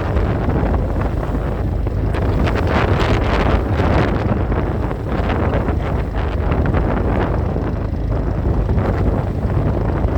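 Wind buffeting the microphone, gusting irregularly over a steady low rumble.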